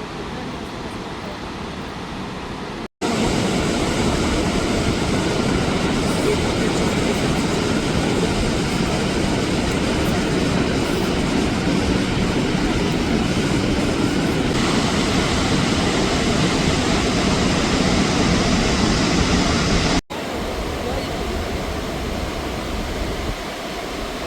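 Steady roar of the Iguaçu waterfalls, a continuous rushing noise. It cuts abruptly a few seconds in and again near the end, and is louder in the long middle stretch.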